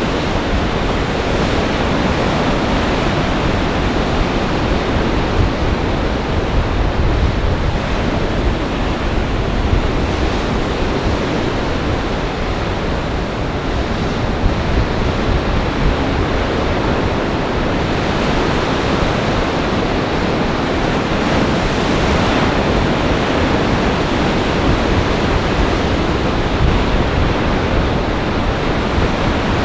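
Lake Michigan storm surf breaking in gale-force wind, a steady heavy wash of waves with wind buffeting the microphone.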